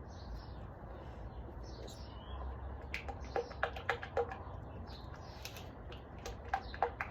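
A cluster of sharp clicks and taps of small objects being handled about three seconds in, and a few more near the end, over faint bird chirps and a steady low hum.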